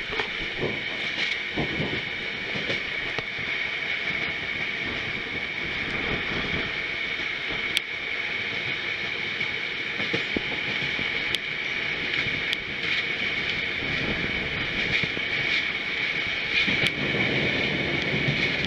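Passenger train running at speed: steady rolling noise of steel wheels on the rails, with a scattered few sharp clicks from the track.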